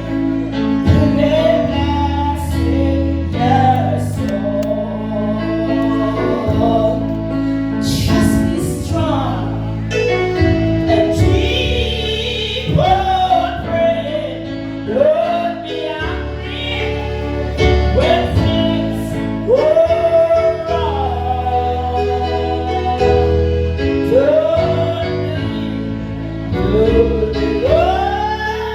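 Gospel singing with instrumental accompaniment: a voice holding long, gliding notes over steady sustained bass notes.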